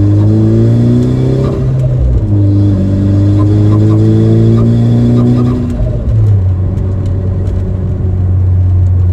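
2015 Ford Focus ST's turbocharged 2.0-litre four-cylinder accelerating hard through the gears, heard from inside the cabin. The engine note rises, drops at a shift about two seconds in, rises again, then drops at a second shift about six seconds in and holds steady. Mostly intake and engine sound, with the Invidia Q300 exhaust deep and in the background.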